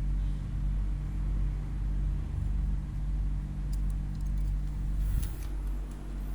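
A steady low machine hum made of several stacked tones, with a few light clicks and a short rustle about four to five seconds in.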